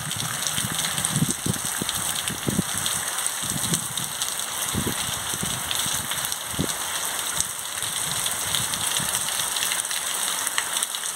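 Heavy rain pouring steadily onto a paved street and nearby roofs, a dense even hiss, with occasional short low thumps mixed in.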